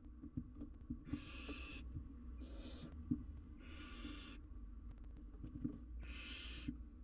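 Barn owl owlets giving their wheezy, hissing begging calls (the "snoring" of young barn owls): four rasping hisses of about half a second to a second each, with faint knocks and rustling in the nest between them.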